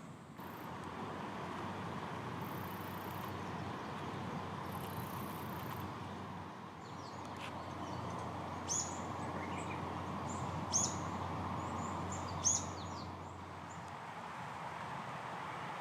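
A bird gives three short, sharp high calls about two seconds apart, with a few fainter chirps between them, over a steady rushing background noise.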